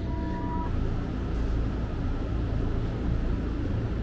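Steady low rumble of an electric train heard from inside the passenger carriage, with a thin steady tone that stops under a second in.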